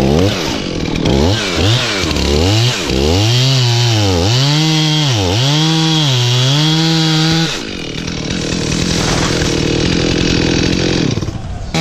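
Chainsaw revved up and down several times, then held at high speed while cutting, its pitch dipping repeatedly under load. About seven and a half seconds in, it drops to a quieter, lower-pitched run.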